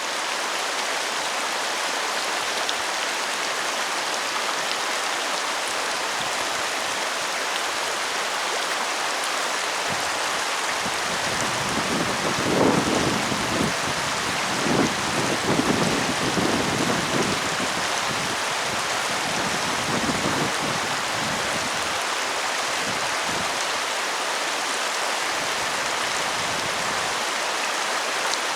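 Steady rain falling, an even hiss. About ten seconds in, a low rumble swells, peaks a few times, and fades out by about twenty seconds.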